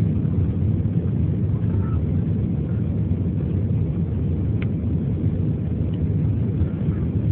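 Steady low rumble of an Airbus A321's engines and airflow heard inside the passenger cabin.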